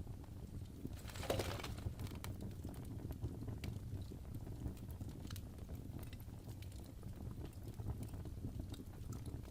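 Wood fire in a fireplace crackling: scattered small pops over a low steady rumble, with one louder crackle a little over a second in.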